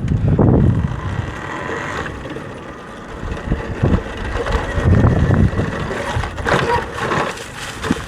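Talaria electric dirt bike rolling down a dirt trail, with wind buffeting the microphone in uneven low rumbles. The brakes squeal briefly near the end, from pads described as bad.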